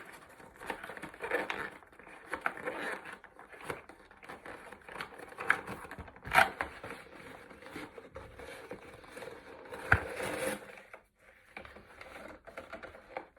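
Action-figure packaging being worked by hand: irregular plastic crinkling, scraping and small clicks, with a sharper click a little past the middle and another near the end.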